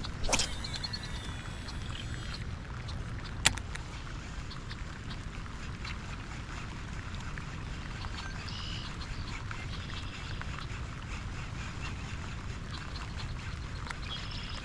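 Steady low rumble of wind buffeting the microphone, with two sharp clicks in the first few seconds and a couple of faint high calls later on.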